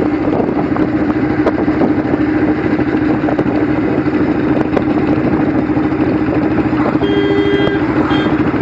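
Motorcycle engine running steadily while the bike is ridden. About seven seconds in, a short steady pitched tone sounds for under a second.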